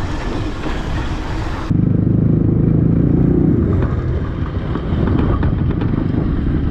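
Wind rushing over the microphone while riding, then after an abrupt cut a dirt bike's single-cylinder engine running loud and steady, easing off slightly a couple of seconds later.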